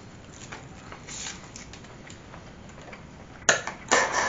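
A person chewing chicken nuggets with faint, scattered mouth clicks. Near the end come a sharp click and a short, louder burst of handling noise.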